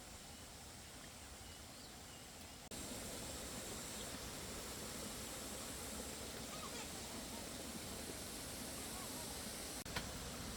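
Steady outdoor ambient noise, an even hiss with no clear source, that jumps louder about a quarter of the way in and has a single click near the end.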